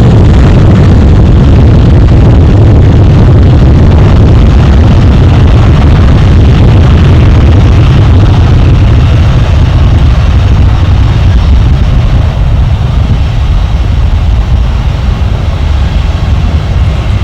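Airbus A321-231's IAE V2500 turbofan engines at departure thrust, a loud low rumble that eases somewhat over the last several seconds.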